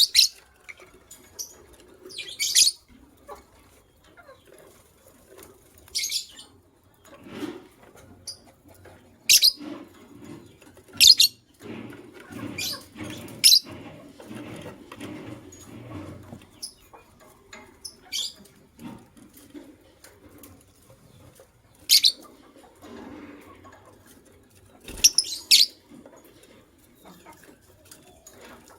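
Lovebirds giving short, sharp, shrill chirps, single or in quick pairs, every few seconds. Between the calls come softer stretches of rustling and wing fluttering, longest in the middle.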